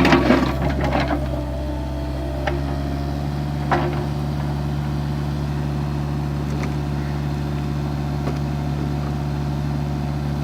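Excavator's diesel engine running steadily, with loud clanking and scraping in the first second and single knocks a few seconds in.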